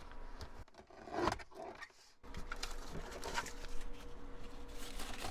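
Paper rustling and scraping as stacked, cut notebook pages and paper scraps are handled on a craft table, with a brief near-silent gap about two seconds in.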